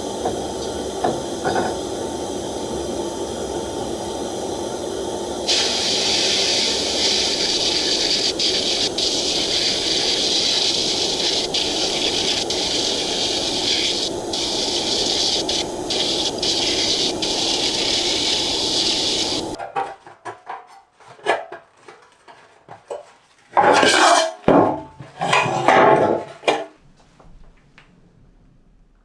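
A steady hissing machine noise, growing brighter a few seconds in, cuts off suddenly about two-thirds of the way through. It is followed by several short clattering knocks and rattles of hard objects being handled.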